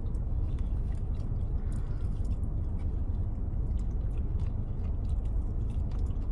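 Close-up chewing of a chicken wing that is soft rather than crispy, with many small wet smacks and clicks, over a steady low rumble inside a car's cabin.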